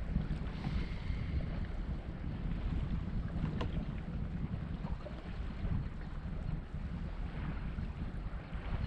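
Wind buffeting the microphone on a small boat out on the water: a steady, gusting low rumble with no clear engine tone.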